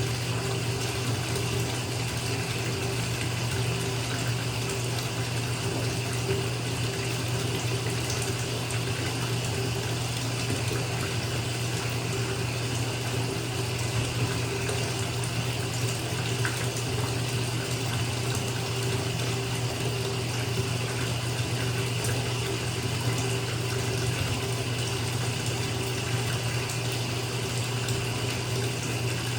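Bathtub being filled from its tap: water pouring steadily into the tub, a constant rush with a low rumble underneath.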